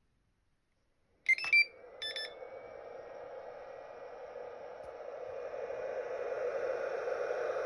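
Traxxas EZ-Peak charger beeping twice on power-up, then its cooling fan starting and running with a steady whir that grows gradually louder. The fan's bearing has just been lubricated to cure its noise.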